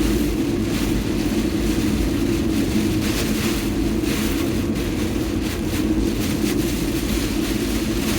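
Steady drone of a car being driven, heard from inside the cabin: engine and tyre noise with a constant low hum.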